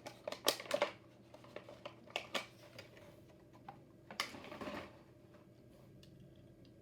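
Diecast car packaging (plastic blister and card) being handled and opened: a quick run of small clicks and crackles in the first second, scattered clicks after that, and a short rustle a little after four seconds.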